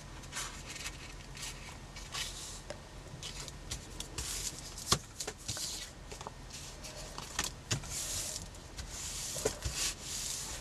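Card pieces being handled, rubbed and pressed together by hand as a tag's back and front are glued, with scattered light taps and clicks and stretches of soft scraping. A faint steady low hum runs underneath.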